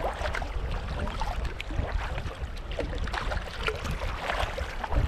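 Kayak paddling on open water: paddle blades dipping and dripping in irregular small splashes over a steady low rumble.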